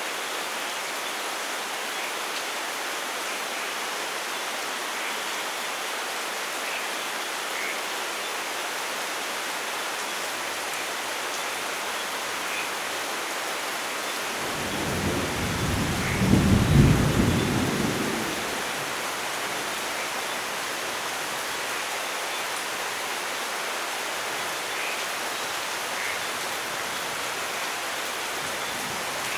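Steady heavy rainfall, with a low rumble of thunder about halfway through that builds over a couple of seconds and dies away within about four seconds.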